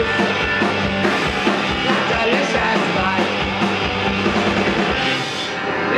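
Live rock band playing full out, with drum kit, bass and electric guitar on a steady beat. The band stops about five seconds in.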